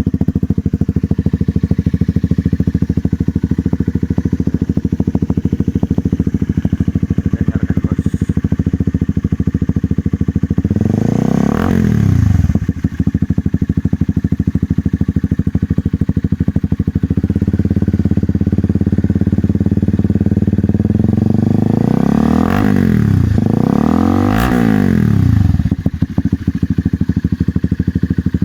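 Honda CBR150R's single-cylinder engine idling steadily through an SC Project-style aftermarket exhaust, blipped up and back down once about a third of the way in and twice more in quick succession later on.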